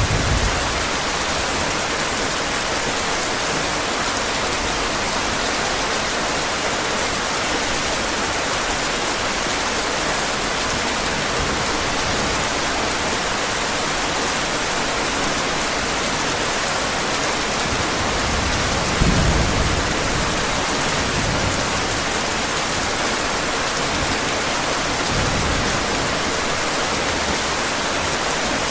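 Steady heavy rain, an even hiss throughout, with a low thunder rumble about two-thirds of the way through and a fainter one soon after.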